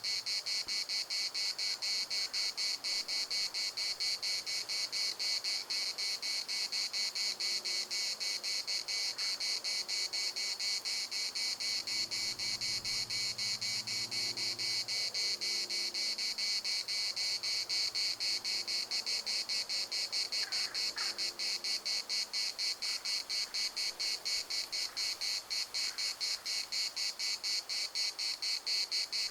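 Cicadas singing in a dense, steady chorus, a high buzz that pulses rapidly and evenly.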